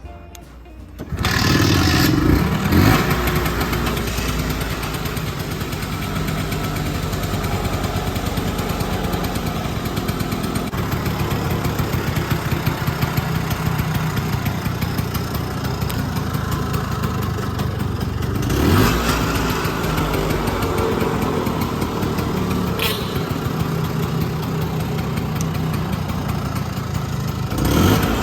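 Vespa 50s scooter's small two-stroke engine, bored up to 85cc, starting about a second in and then idling, revved briefly three times: just after starting, midway and near the end.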